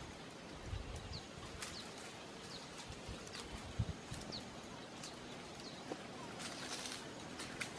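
Small birds chirping: short, high, falling chirps repeating every second or so. Under them come a couple of soft knocks and a brief rustle of branches near the end, from someone climbing a tree.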